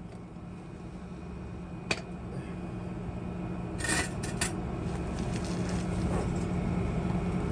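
Metal clinks and taps on a truck's exhaust pipe as it is being cut out, over a steady low hum that slowly grows louder.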